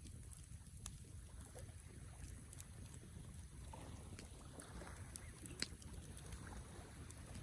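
Wood campfire burning, with scattered small crackles and pops over a low steady rumble; a soft hiss swells up about four seconds in.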